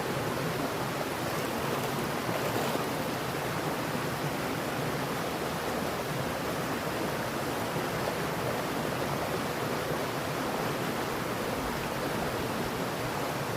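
Mountain stream flowing over rocks, a steady rush of water.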